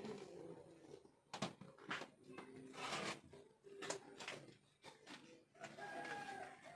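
Scattered household knocks and clatter in a small room, like drawers, cupboard doors or utensils being handled, with faint held tones about six seconds in.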